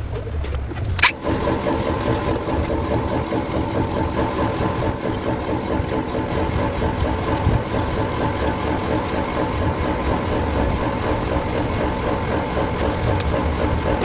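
Daihatsu Cuore car engine starting about a second in, with a short sharp burst as it catches, then running steadily at idle.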